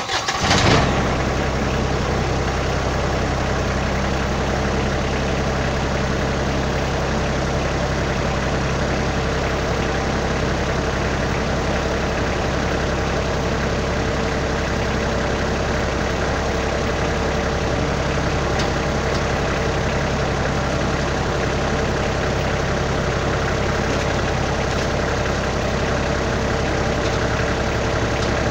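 Kioti compact tractor's diesel engine starting up and settling into a steady idle.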